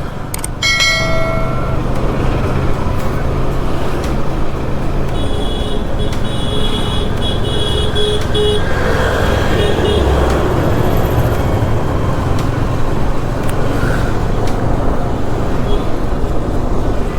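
Motorcycle riding through traffic, with steady road and wind noise on the helmet microphone and the bike's engine underneath. Vehicle horns honk: one short blast about a second in, then a rapid run of beeping honks from about five to nine seconds.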